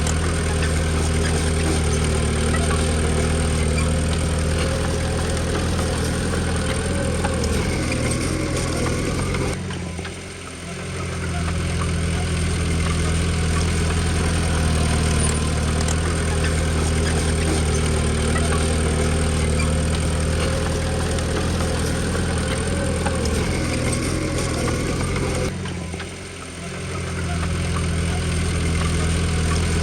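Heavy diesel engine of earthmoving machinery running steadily. The sound drops away sharply twice, about ten seconds in and again about 26 seconds in, and builds back up within a second or two each time.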